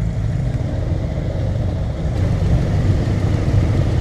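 Ural sidecar motorcycle's boxer-twin engine running steadily, getting a little louder about halfway through.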